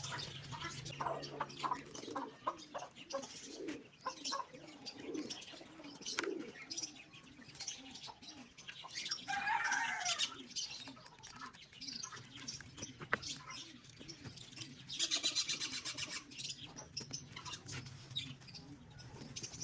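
Pigeons moving about with wing flaps, scuffles and cooing. A single call comes about nine seconds in, and there is a short burst of rapid wing-flapping about fifteen seconds in.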